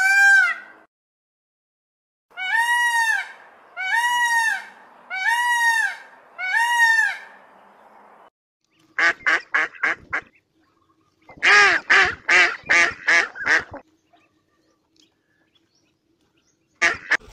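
Waterfowl calling: four drawn-out, arching honks about a second and a half apart, then two quick runs of short, rapid calls.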